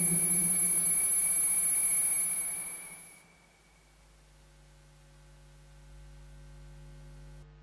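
Lyra-8 analogue synthesizer drone with a low buzzing hum and steady high tones, fading out about three seconds in. A much fainter low hum with a few held tones lingers afterwards and stops near the end.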